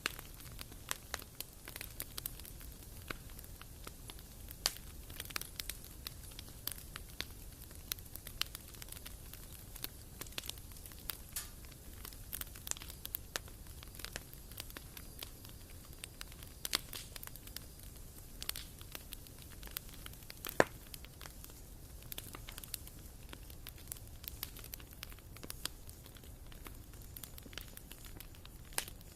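Wood fire burning in a fireplace, the logs crackling with irregular sharp pops over a low steady rumble, one louder pop about two-thirds of the way through.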